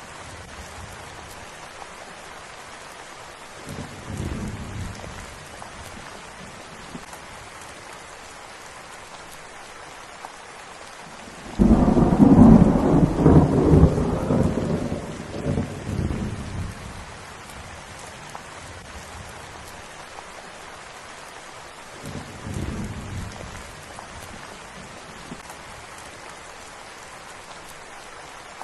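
Steady rain with rolling thunder. A short rumble comes about four seconds in, a loud one starts suddenly near the middle and dies away over about five seconds, and another short rumble follows later.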